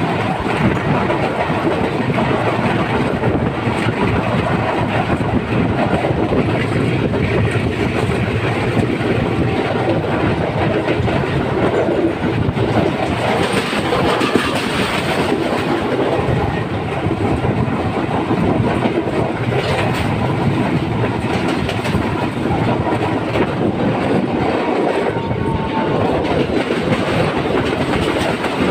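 Train running along the rails with steady wheel and track noise.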